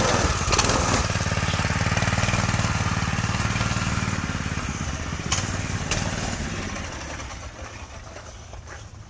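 Predator 212 single-cylinder go-kart engine running as the kart drives off, growing steadily fainter over the last few seconds as it moves away.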